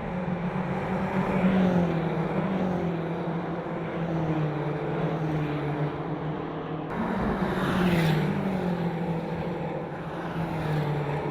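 Car engine running under load, its pitch swelling up and easing back down twice. The sound changes abruptly about seven seconds in.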